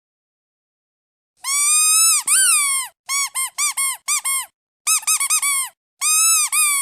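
Duck squeeze toy squeaking: after a second and a half of silence, one long squeak, then four short squeaks, then five quick ones, then another long squeak near the end.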